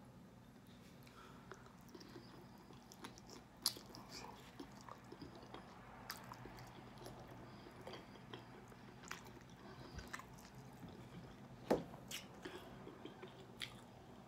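Close-up chewing and biting into sauced chicken wings, with scattered sharp mouth clicks and smacks; two louder clicks stand out, about a quarter of the way in and near the end.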